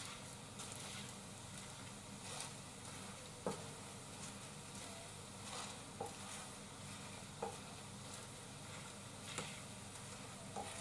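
Cabbage pancake batter sizzling faintly in an aluminium frying pan, with a few light clicks and scrapes of a plastic spatula pressing it down against the pan after the flip.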